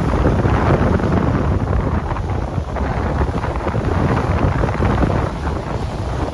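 Strong coastal wind buffeting the microphone, a heavy gusting rumble that swells and eases.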